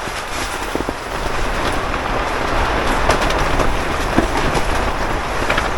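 Strong wind gusting against a hub tent, a loud rumble with the fabric flapping and rattling throughout, swelling a little in the middle.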